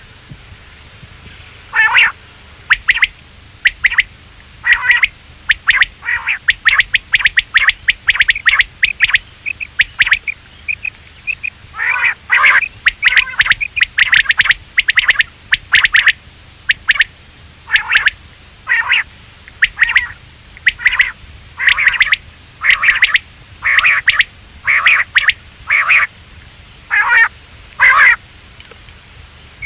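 Quail calling: short, sharp calls repeated about once a second, with quicker runs of calls in places. It is a recorded call of the kind used to lure quail in.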